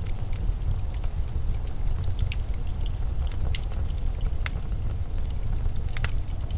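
Winter storm wind, a steady low rumble, with scattered small sharp crackles and ticks over it.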